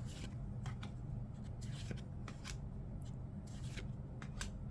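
A stack of WWE NXT trading cards being flipped through by hand, each card sliding off the stack with a short papery swish, about a dozen at an uneven pace, over a steady low hum.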